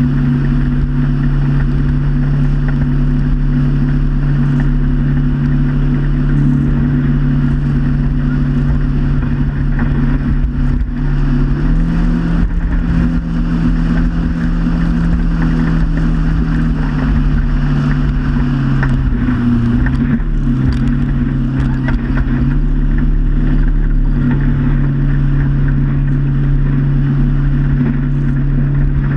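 Motorboat engine running steadily under way; its pitch rises a little about twelve seconds in, dips briefly near twenty seconds, then settles back.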